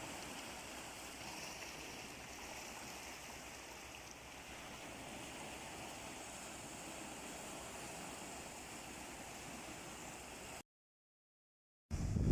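Sea water washing steadily on the shore, a soft even hiss of surf. Near the end the sound cuts out completely for about a second, then a louder low rumble starts.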